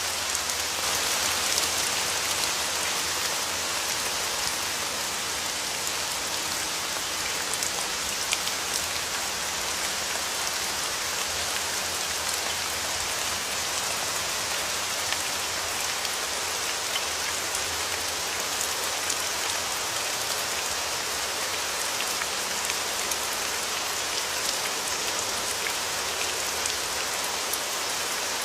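Steady rain falling, a dense even hiss of drops with scattered individual drop ticks on a hard surface.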